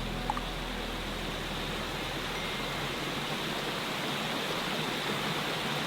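Steady rushing water ambience, an even hiss without rhythm, with one brief tick about a third of a second in.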